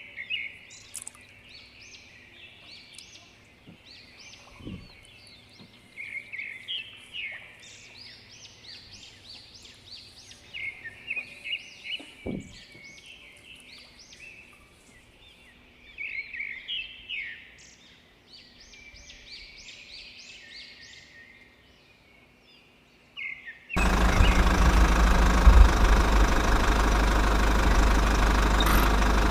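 Small birds chirping repeatedly over a faint background. About 24 s in, a loud small diesel engine, the mini water pump's motor, comes in abruptly and runs steadily.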